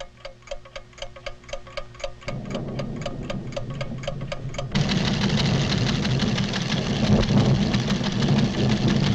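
Cartoon sound effect of measuring instruments ticking fast and evenly, about five ticks a second. Partway through, a low rumble creeps in, and about halfway it swells into a loud, dense rumble that covers the ticking.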